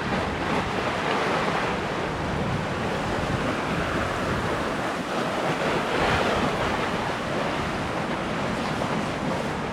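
Steady rush of wind and water on a sailboat under sail, with wind buffeting the microphone; it swells briefly about six seconds in.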